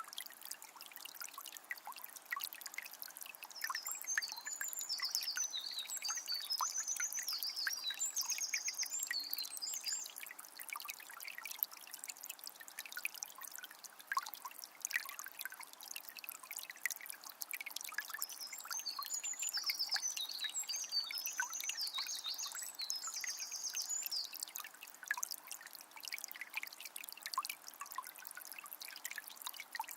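Water of a small spring trickling steadily, with a songbird singing a phrase of quick high notes twice, about four seconds in and again near the middle, each lasting about six seconds.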